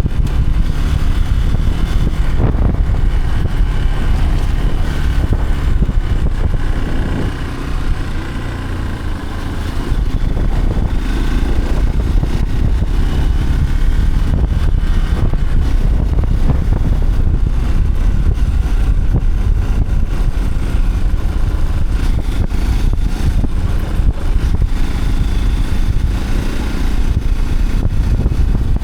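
Vehicle engine running steadily while under way, with a heavy low rumble that eases briefly partway through.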